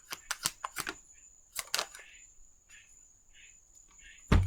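Tarot cards being shuffled: a quick run of sharp card snaps in the first second, a couple more near two seconds in, then soft sliding of cards, and a single dull thump just before the end.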